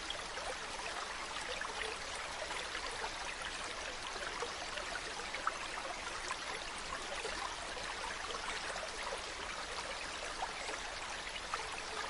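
Mountain stream running steadily: an even rush of flowing water dotted with many small splashes.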